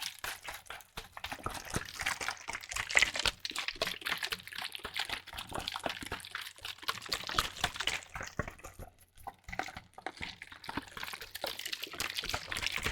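Liquid leaking and dripping from a bottle: a dense run of small wet pops and crackles that thins briefly about two-thirds of the way through.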